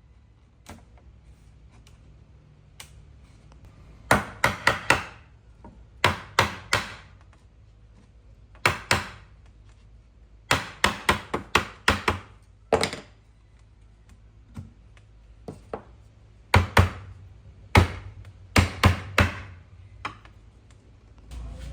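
Hammer blows on wood, struck in quick bursts of one to five sharp knocks with pauses between, starting about four seconds in.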